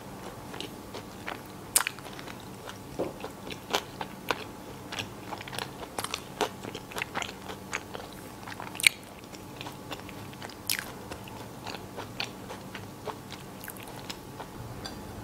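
A person chewing a mouthful of chicken sandwich, closely miked: irregular soft crunches and wet mouth clicks, with one sharper click about nine seconds in.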